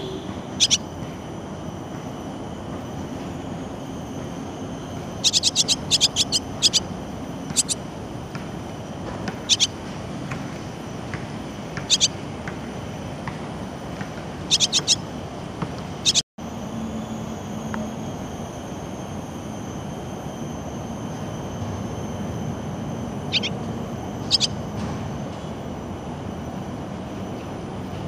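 Swallows giving short, sharp chirping calls, singly and in quick clusters, over a steady low background rumble.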